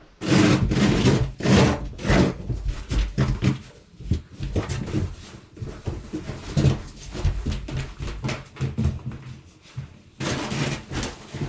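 Old carpet and its padding being ripped up and dragged off a wood floor: an irregular run of tearing, scraping and knocking, loudest at the start and again near the end.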